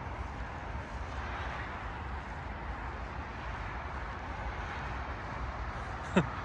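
Distant city traffic: a steady low rumble and hiss with no distinct events.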